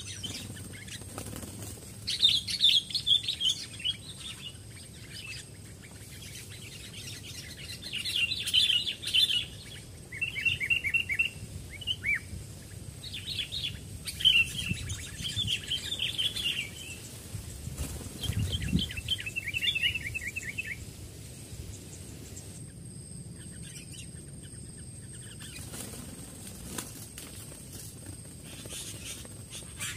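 Sooty-headed bulbuls calling: bursts of short, bubbly chirping phrases repeated every second or two, thinning out in the last third.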